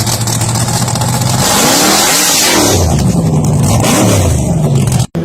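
Car engine running loud at a steady speed, then revved up and down several times, its pitch rising and falling. The sound cuts off suddenly near the end.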